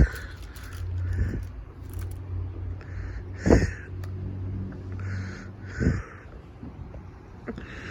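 Fireworks going off: three sharp pops a few seconds apart, with short raspy crackling bursts between them over a steady low hum.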